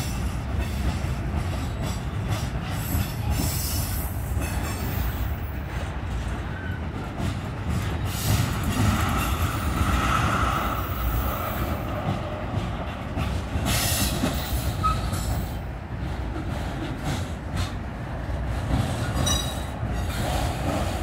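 Freight train's tank cars, covered hoppers and autoracks rolling past at close range: a steady rumble and clatter of steel wheels on rail, with a faint wheel squeal near the middle.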